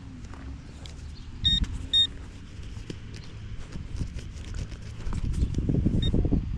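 A metal detector gives two short, high electronic beeps about half a second apart as it checks the hole, the target still deeper down. Digging in soil follows, with scraping and knocks that grow louder near the end.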